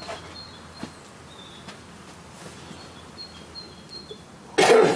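Small birds calling in short, thin, high chirps, again and again, over a faint background. A short loud noise cuts in near the end.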